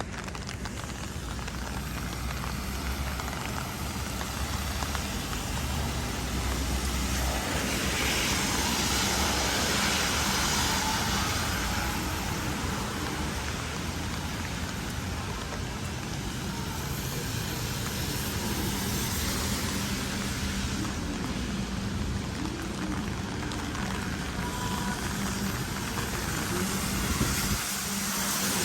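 Haga-Utsunomiya LRT tram running, heard from inside the car: a steady rumble of wheels on rail with a low motor hum, growing fuller about eight seconds in.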